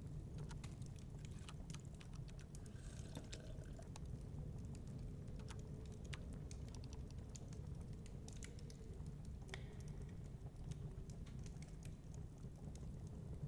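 Wood fire crackling: irregular sharp snaps and pops scattered throughout, over a steady low rumble.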